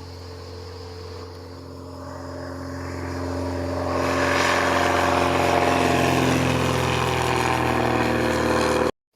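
Piston engine and propeller of a light aircraft running steadily, growing louder over the first four seconds and then holding loud before cutting off abruptly near the end.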